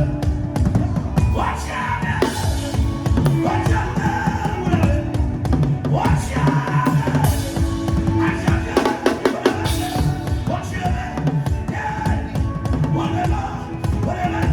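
Music led by a drum kit playing a fast, busy beat with many rapid strokes, with a gliding melodic line, likely voices, over it.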